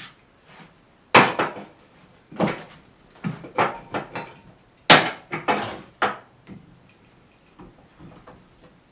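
A series of knocks and clatters from hard objects being handled and set down, the loudest about a second in and again around five seconds in, then only small scattered taps.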